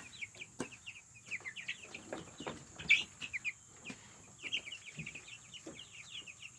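Young chickens peeping: many short, high, falling chirps overlapping one another, with a few soft knocks among them.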